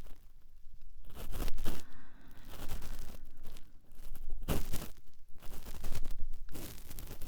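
Cotton swab rubbing and scraping against a microphone's ear, close up, in irregular scratchy strokes with a louder one about four and a half seconds in.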